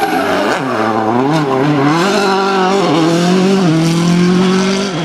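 Rally car engine at high revs, its pitch falling and climbing back several times as the revs drop and pick up again, with a sharp drop near the end.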